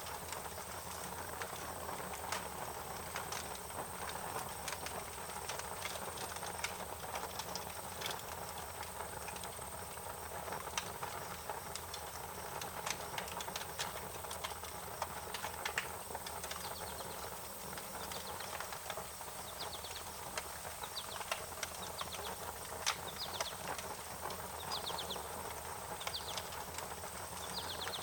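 Wood fire crackling, with frequent sharp pops and snaps over a steady hiss. From about halfway in, short high chirping calls repeat every second or so over the crackle.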